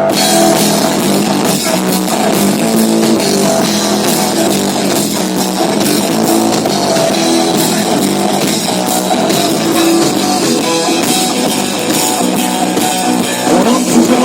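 Rock music: electric guitar and drum kit playing an instrumental passage, with no vocals.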